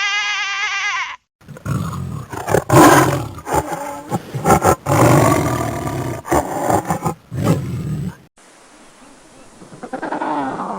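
A large wild animal roaring in several rough, uneven surges for about six seconds, following the tail of a bleating call about a second in; a different wavering, pitched animal call begins near the end.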